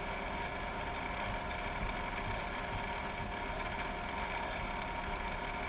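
A steady machine hum holding several constant tones, unchanging throughout.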